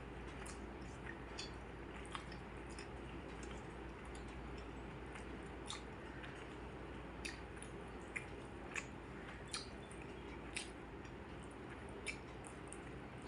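Close-miked chewing and soft wet mouth sounds of someone eating rice with fish curry, with scattered small clicks over a low steady hum.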